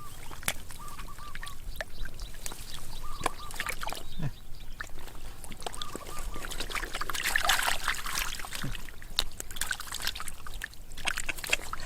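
Water splashing, trickling and dripping, with many small clicks and a louder splash about seven seconds in. An animal calls several times in quick runs of short repeated notes, each run under a second long.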